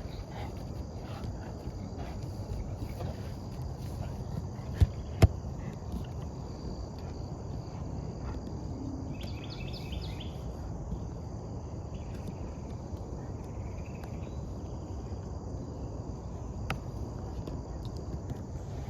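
Outdoor ambience: insects keeping up a steady high-pitched trill over a low background rumble, with two sharp knocks about five seconds in and a few brief bird chirps around the middle.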